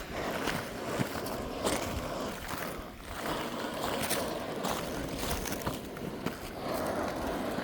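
Footsteps crunching on fresh, brittle lava rock, sharp crunches at an irregular walking pace over a steady rushing noise.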